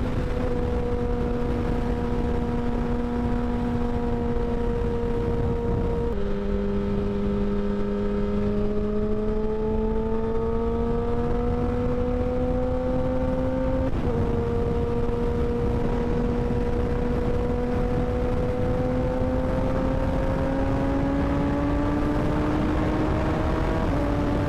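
Kawasaki Ninja 1000 cc sport bike's inline-four engine pulling hard at high revs at highway speed, over heavy wind rumble. The pitch drops sharply at a gear change about six seconds in, climbs, jumps again a little after the middle, then rises steadily as the bike accelerates.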